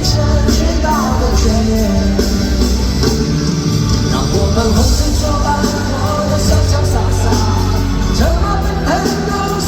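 Live rock band playing a song loudly, with singing over it.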